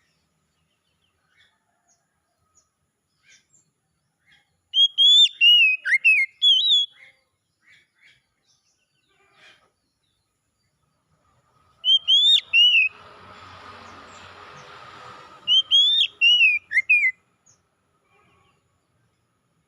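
Oriental magpie-robin (kacer) singing: three short bursts of loud, clear whistled notes sliding up and down, with near silence between them. A faint rushing noise runs for a couple of seconds between the last two bursts.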